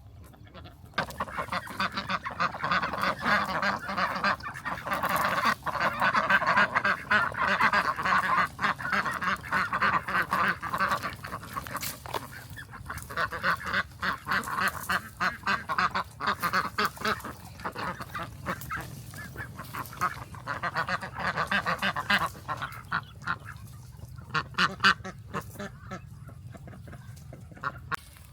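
A flock of ducks calling together in a dense, noisy chorus that starts about a second in. Near the end it thins out to scattered calls.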